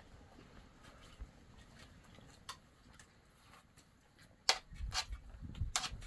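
Scattered faint ticks, then a few sharp knocks or clacks over the last second and a half, the first of them the loudest.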